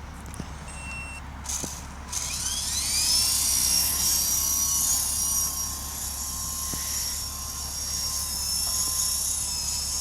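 Small electric radio-controlled toy helicopter's motor spinning up with a rising whine about two seconds in, then running at a steady high whine.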